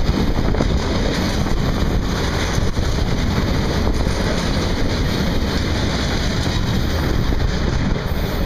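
Freight train of tank wagons rolling past at close range: a loud, steady rumble and rush of steel wheels on the rails.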